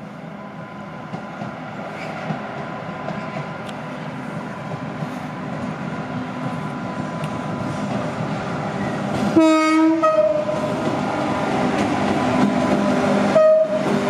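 Electric locomotive hauling passenger coaches, approaching and growing steadily louder on the rails. It sounds its horn twice: a longer, lower blast about nine seconds in and a short, higher blast near the end.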